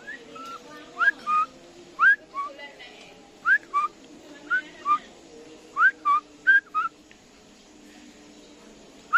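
Whistling: short clean two-note whistles, each a quick upward slide followed by a short steady note, repeated about once a second, pausing about seven seconds in and coming once more at the end.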